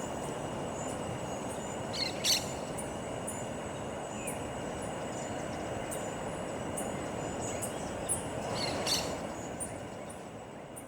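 Evening forest ambience: a steady rushing background with a thin, steady insect drone, many faint high ticks and two sharp bird calls, one about two seconds in and one near nine seconds, fading out near the end.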